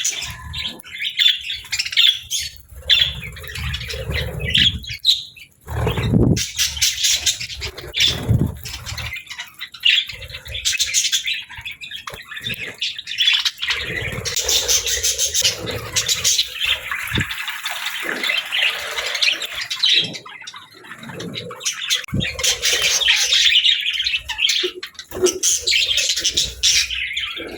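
Small pet parrots, budgerigars, chattering, chirping and squawking continuously, with some low thumps and rumble in the first part.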